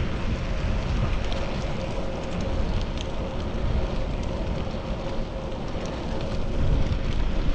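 Wind noise on a chest-mounted action camera's microphone while cycling, over a steady low road rumble. A faint constant hum runs underneath, with a few small ticks.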